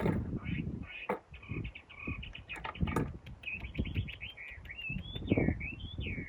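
A bird calling in a quick run of high chirps that turns into a rising and falling warble about halfway through, over irregular low knocks and thumps.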